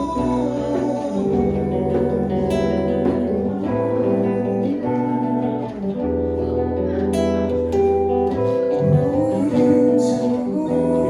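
Acoustic and electric guitars playing an instrumental passage together: held chords over a bass line that changes every second or two, with a few sharp accents.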